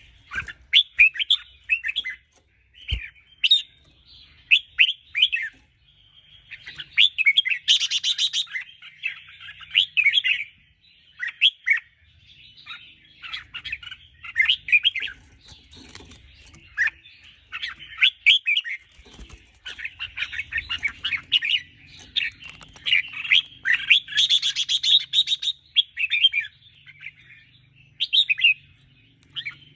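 Red-whiskered bulbul song: quick runs of short chirping notes, repeated phrase after phrase with brief pauses between.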